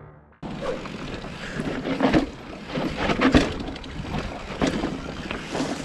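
Wind buffeting a helmet- or chest-mounted action camera's microphone, with several knocks and rattles from the mountain bike and its handling. It starts abruptly about half a second in.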